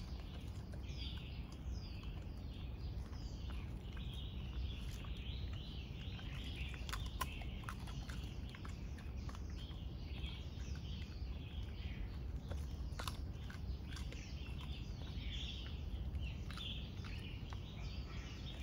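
Small birds chirping and calling again and again, many of the calls quick downward sweeps, over a steady low outdoor rumble. A few sharp clicks are scattered through, two of them louder.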